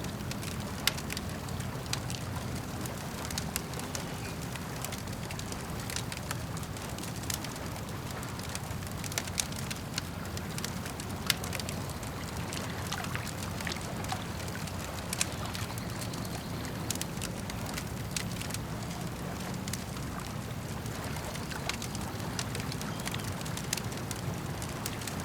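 Campfire crackling with irregular sharp pops and snaps over a steady low wash of lapping lake water.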